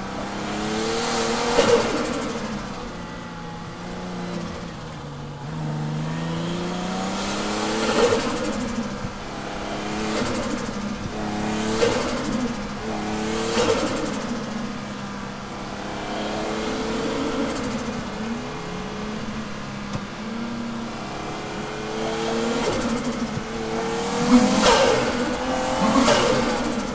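Toyota JZX100 Tourer V's turbocharged 1JZ-GTE straight-six, heard from inside the cabin, revving up and down over and over while the car is drifted, with tyre squeal. Sharp cracks cut through several times, most of them near the end.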